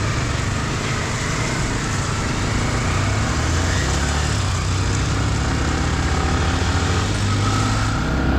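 Motorcycle running at cruising speed on a highway: a steady low engine drone under even wind and road rush.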